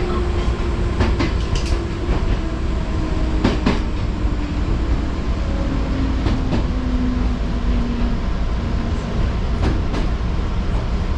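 Electric train running on the rails, heard from on board: a steady rumble with scattered sharp clicks from the wheels and track. Over it runs a hum that falls slowly in pitch and fades out near the end.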